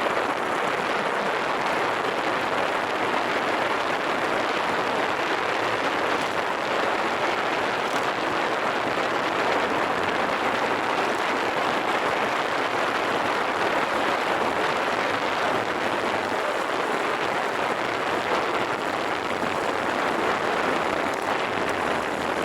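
Steady rushing wind and road noise while riding a Honda Super Cub, an even hiss with no clear engine note standing out.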